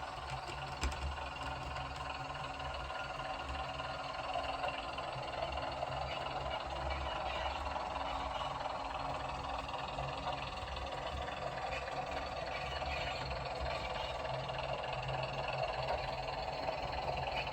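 Sound decoder of a Bachmann Class 101 DMU model playing the diesel unit's running sound with its flange squeal effect, the high screech of wheel flanges grinding on curved rail, through the model's small speaker. A steady low engine hum runs beneath a continuous higher screeching hiss.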